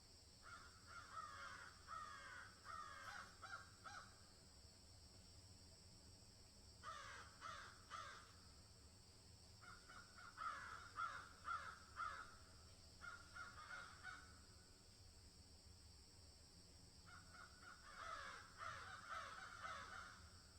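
Birds calling in about five bouts of quick, falling notes, over a faint steady high hiss.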